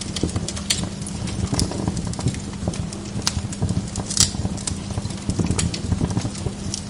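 Wood log fire in a fireplace crackling, with irregular sharp pops over a low steady hum; the loudest pop comes about four seconds in.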